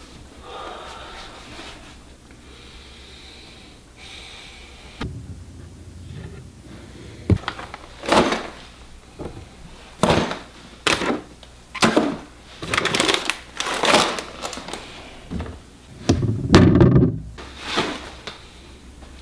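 A series of irregular knocks and thuds, about a dozen over some ten seconds, with a heavier thud near the end.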